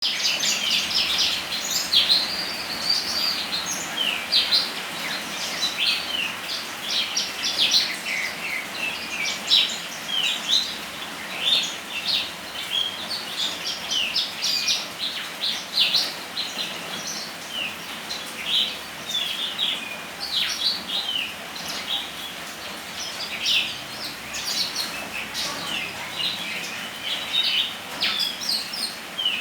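Small birds singing energetically, a rapid run of short chirps and sweeping notes throughout, over a steady hiss of rain.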